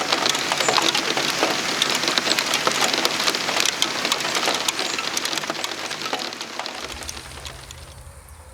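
Heavy rain pattering, a dense run of individual drops hitting a surface, fading away over the last couple of seconds. A low steady rumble comes in near the end.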